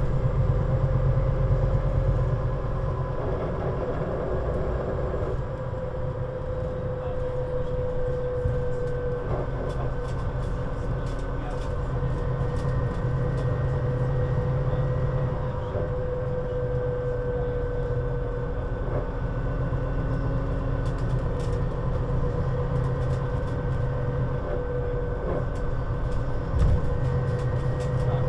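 Scania Citywide LFA articulated bus (CN320UA 6x2/2) with its five-cylinder diesel engine running steadily, a low drone with a held whine that drifts slightly in pitch, and light clicks and rattles scattered through.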